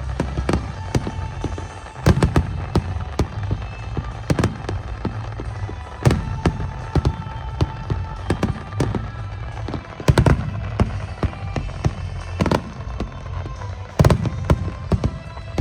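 Aerial fireworks shells bursting in a rapid string of bangs and crackles, with heavier booms every few seconds, over music with a steady low bass.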